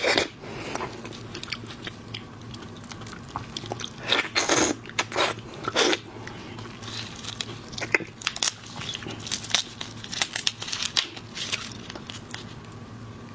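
Close-miked eating of shellfish: shells cracking and crunching between the teeth with wet chewing, in a string of irregular clicks and short bursts, busiest about four to six seconds in.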